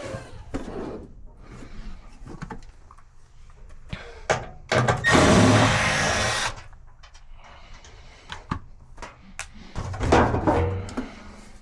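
Clicks and knocks from hands and tools working on a clothes dryer. There is a loud scraping slide of about two seconds near the middle and a shorter one near the end.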